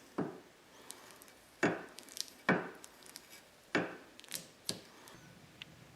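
About half a dozen sharp knocks and clunks at irregular intervals, from metal motorcycle parts being handled and fitted together as a front fork is put onto the steering stem.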